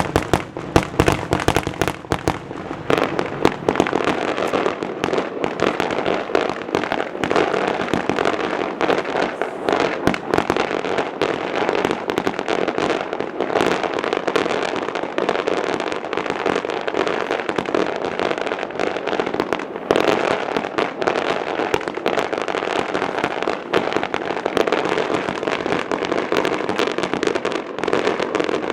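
Fireworks going off in a dense, unbroken run of rapid cracks and pops, with a few louder bangs in the first couple of seconds.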